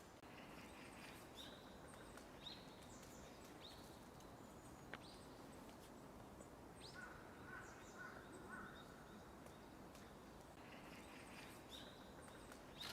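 Faint bird calls: short, high, falling notes scattered through, with a brief run of lower chirps about seven seconds in, over a steady outdoor hiss.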